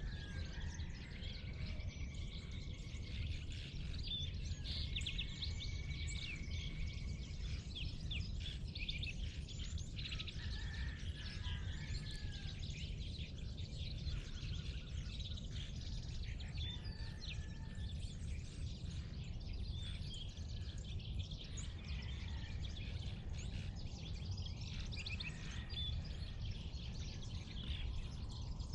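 Several birds chirping and whistling together in a dawn chorus, with short calls and some longer whistled notes throughout, over a steady low rumble.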